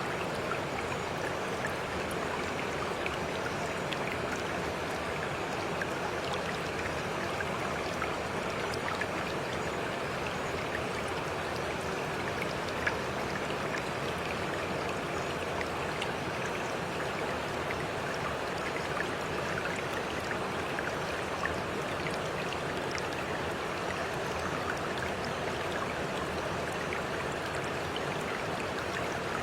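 Water of a small stream flowing steadily, an even rushing with faint droplet-like ticks.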